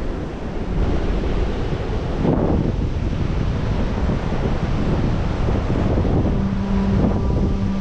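Wind buffeting the microphone over the steady wash of surf on a beach. About six seconds in, a steady low hum joins.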